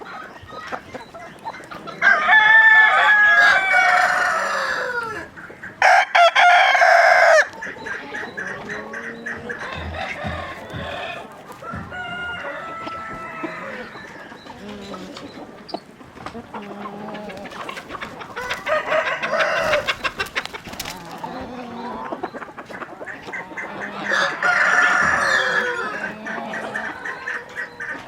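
Roosters crowing again and again, the loudest crows in the first several seconds, with hens clucking in between.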